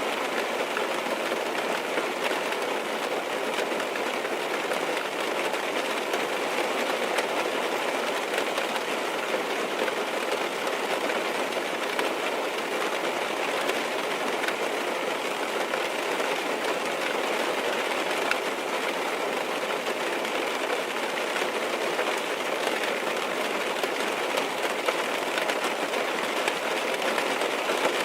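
Steady rain on a car's roof and windows, heard from inside the car, an even hiss of tiny drops that doesn't change.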